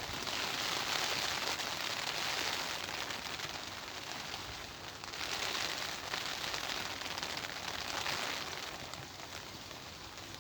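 Rain falling steadily, with wind. The hiss swells and eases a few times.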